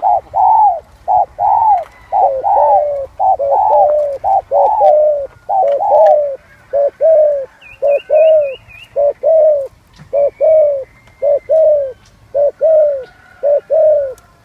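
Spotted dove cooing up close: a continuous run of short, low coos, each sliding down in pitch, repeated over and over. A faint high warbling trill from another small bird comes in about 8 seconds in.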